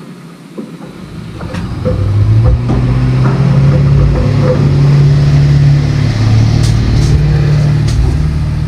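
Pickup truck engine running, coming up over the first couple of seconds and then holding a steady, loud, low hum.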